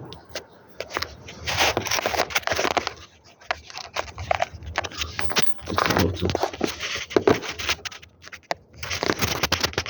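Hand tools and metal suspension parts being worked by hand: irregular bursts of scraping with scattered clicks and knocks, in several clusters with short pauses between them.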